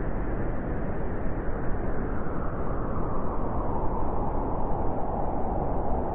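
Blizzard wind blowing steadily: a dense, low rush of noise with a slight swell in the middle pitches later on.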